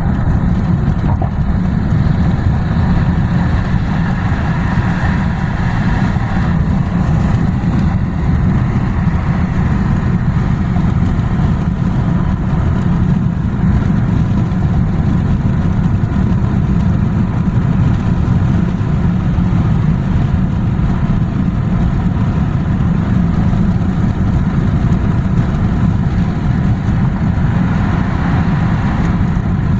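Truck being driven: a steady low rumble of engine and road noise.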